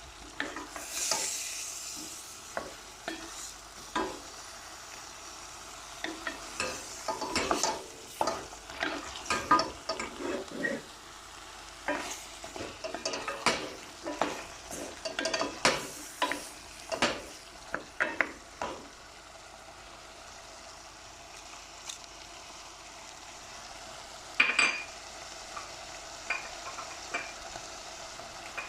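Brussels sprouts cooking in olive oil with a steady sizzle, while a spoon stirs them in the pan with many quick scrapes and clinks. The stirring stops about two-thirds of the way through, leaving the sizzle with a couple of knocks later.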